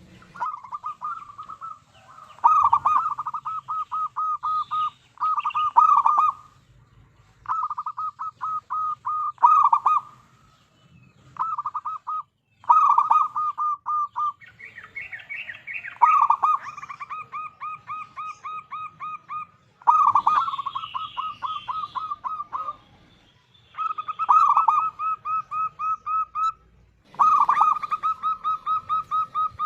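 Zebra dove (perkutut) cooing: phrase after phrase of rapid staccato notes, each phrase one to three seconds long, with short pauses between.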